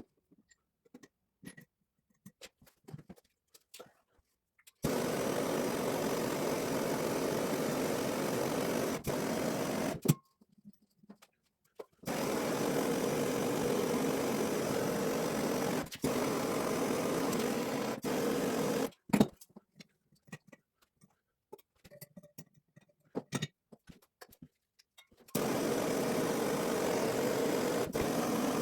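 Propane torch burning with a steady hiss in three long runs, each switched on and off abruptly, with small clicks in the quiet gaps: heating copper pipe fittings to solder the joints.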